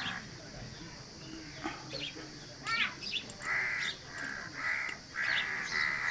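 Crows cawing, a run of about five short caws in the second half, with a few quick bird chirps before them.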